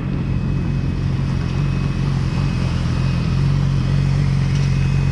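Yamaha R6's 600 cc inline-four engine running at steady low revs as the bike is ridden slowly, with no revving.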